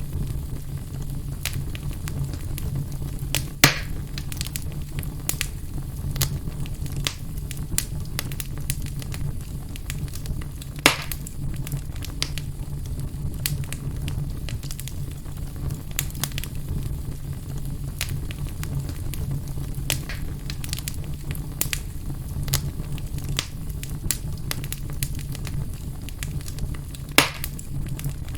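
Wood fire burning in a fireplace, crackling with frequent small snaps and three louder pops, over a steady low rumble.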